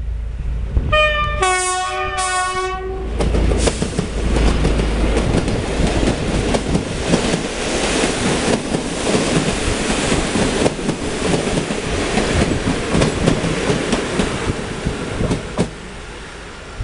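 A passenger train sounds two short horn blasts of a multi-tone chord as it approaches, then runs past close by, with the carriage wheels clattering over the rail joints. The passing noise cuts off sharply near the end as the last carriage goes by.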